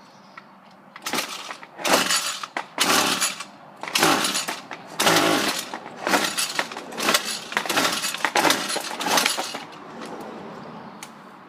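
Starter rope of a cold Ryobi gas string trimmer being yanked about ten times in quick succession, roughly once a second, each pull a short rasping whirr; the engine does not catch.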